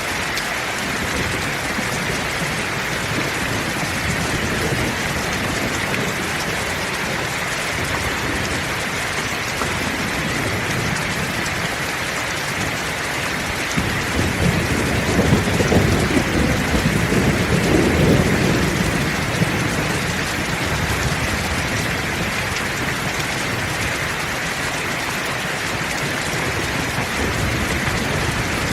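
Heavy rain falling steadily. A roll of thunder rumbles low and long about halfway through, swelling for several seconds before dying away under the rain.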